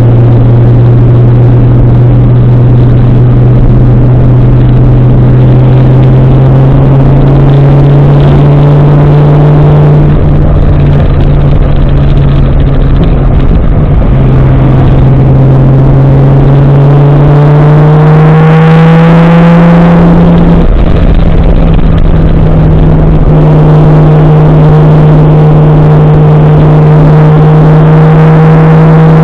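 Toyota 1JZ-GTE turbocharged inline-six in a Nissan 240SX running under load on the road. The engine note climbs slowly and jumps in pitch at gear changes about ten, fourteen and twenty seconds in.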